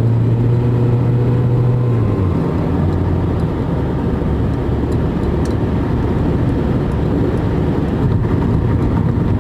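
Car engine and road noise heard from inside a moving car: a steady low drone over tyre rumble, the engine hum dropping in pitch about two seconds in.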